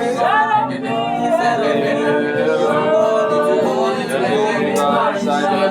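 Gospel worship music: a man singing a drawn-out, bending melody over held keyboard chords.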